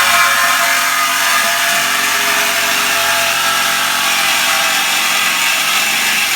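Power tool cutting through a pickup truck's metal exhaust pipe, starting abruptly and running steadily and loudly without a break.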